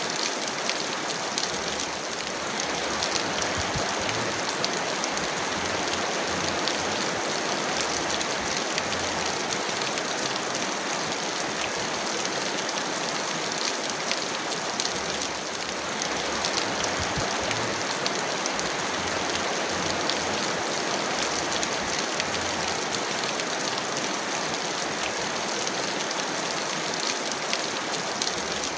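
Heavy rain falling steadily: a dense, even hiss with fine patter of individual drops.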